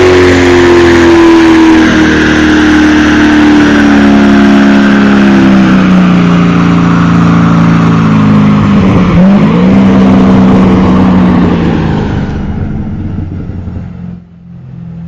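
Corvette C6 Z06's 7.0-litre LS7 V8 running loud on a chassis dyno through a B&B Bullet exhaust, its revs falling slowly and steadily as it winds down. About nine seconds in the pitch dips briefly and recovers, then the sound fades away over the last few seconds.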